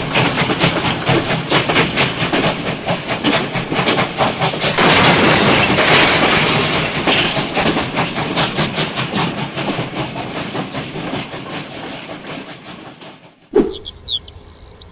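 Rapid, rhythmic mechanical clattering that fades over the last few seconds, then stops abruptly, giving way to birds chirping near the end.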